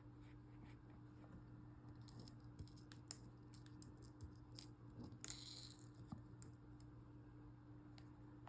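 Near silence: faint steady hum, with scattered small clicks and a brief rustle about five seconds in from handling cloth and sewing things by hand.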